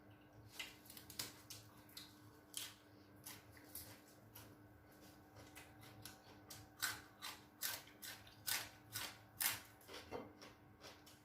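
Faint, sharp clicks and cracks at a meal of cooked seafood, sparse at first and coming about two a second in the second half, as shells are broken and food is handled at the table.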